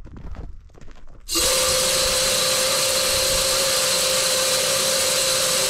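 Corn feeder's electric spinner motor starting about a second in and running steadily with a whine, after a few faint clicks. It is a test run on a freshly swapped battery, and it shows the feeder works again.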